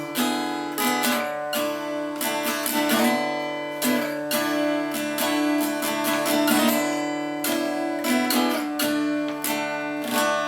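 Acoustic guitar strummed, an instrumental break between sung lines of an original country song, with chords struck repeatedly and ringing on.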